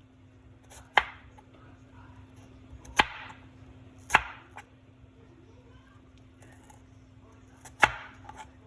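Kitchen knife cutting an onion, striking the cutting board four sharp times, with a few lighter knocks between.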